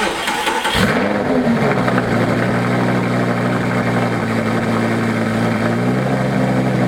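Lamborghini Gallardo's V10 engine starting, its revs flaring and settling within the first second or so, then running at a steady idle.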